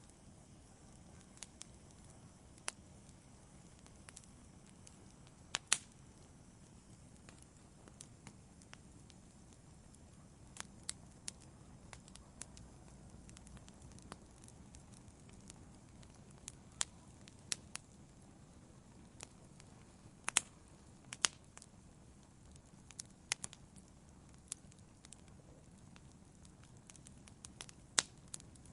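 Wood fire in a fireplace crackling: a low, steady rumble of flame with irregular sharp pops and snaps, a few louder ones about six seconds in, around twenty seconds in and near the end.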